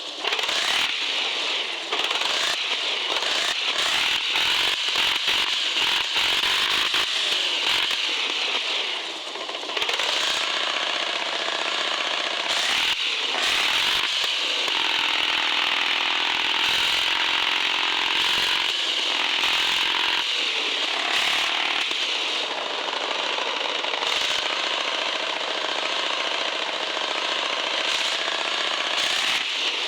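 Radio-controlled 4x4 crawler's electric motor and gearbox running with a buzzing, rattling whine that rises and falls in pitch, with frequent sharp clicks and knocks.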